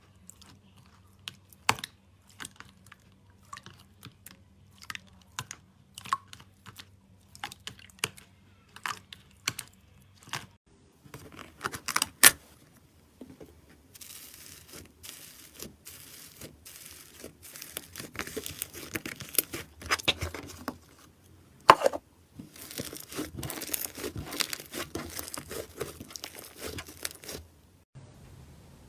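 Slime being squeezed and poked close to the microphone: scattered sharp pops and clicks at first, then from about a third of the way in a denser, steady crackling.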